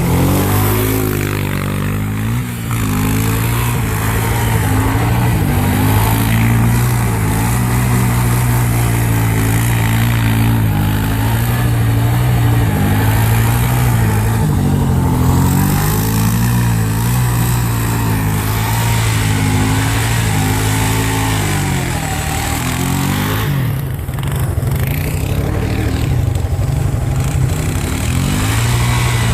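Small vehicle engine running continuously, its revs rising and falling, with short drops in engine note about two seconds in and again near the end.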